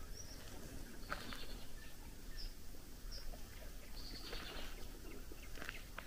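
Birds singing at dusk: scattered short high chirps and a couple of longer buzzy song phrases, over steady low background noise.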